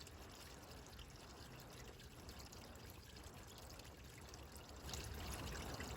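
Faint, steady trickle of water from a small waterfall running over rock, growing a little louder near the end.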